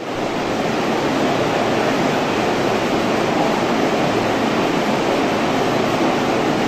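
Steady rushing noise at an underground platform where an E233 series electric train stands idle with its onboard equipment running. No horn, doors or movement are heard yet.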